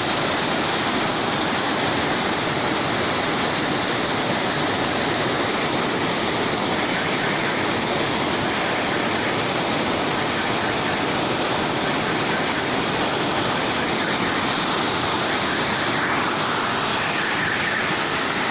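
Very heavy rain pouring down, a steady, dense hiss with no let-up.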